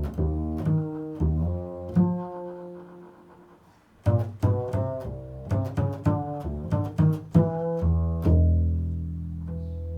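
Improvised melody on a plucked string instrument: a run of low notes, a short pause about three seconds in, a quicker run from about four seconds, then a note left ringing near the end.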